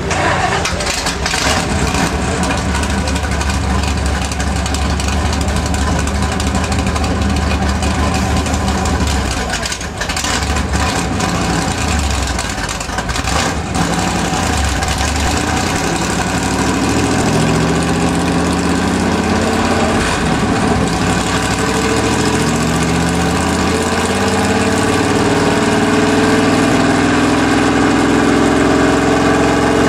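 1970 Chevy C10 pickup's engine running on a chassis dyno. It turns low and steady through the first half, with a couple of brief dips, then its pitch climbs steadily through the second half as it winds up under load in a dyno pull.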